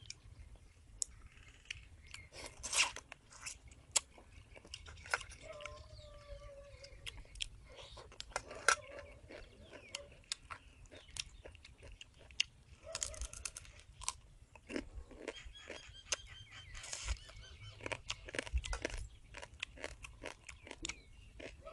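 Fried rice field crab being eaten: irregular crunches and cracks of the crisp shell between the teeth, with chewing in between.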